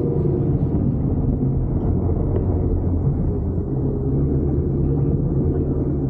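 Ford Raptor pickup's V8 engine running at fairly steady revs, a low rumble with a hum underneath that eases slightly near the end.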